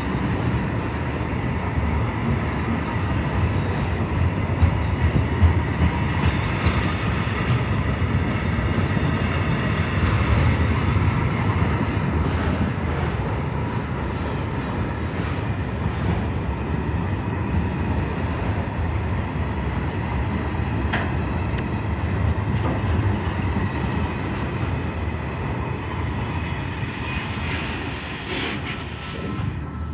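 Freight train of container flat wagons carrying tank containers rolling past close by: a steady rumble of wheels on rail with a few sharp clicks and a thin, steady squeal above it, easing off slightly near the end as the last wagons pass.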